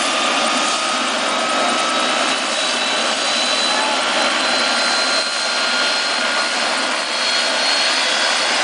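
Helicopter's turbine engine and rotor running: a steady rushing noise with a high whine that slowly rises in pitch.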